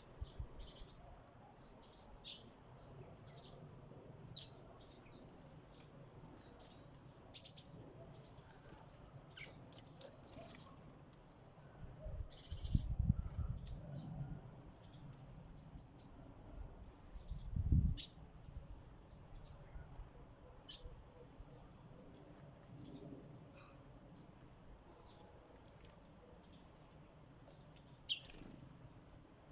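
Sparrows chirping at a feeder in short, scattered high chirps, with a couple of low dull bumps and rumbles about halfway through.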